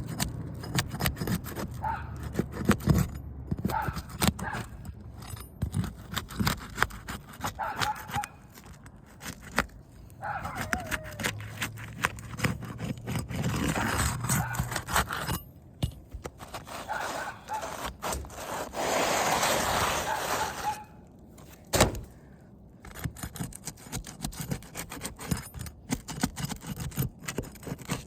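Flat shingle-removal bar (roof snake) scraping under asphalt shingles to break their adhesive seal strips: many short scrapes and clicks, with longer rasping scrapes around the middle and about two-thirds through.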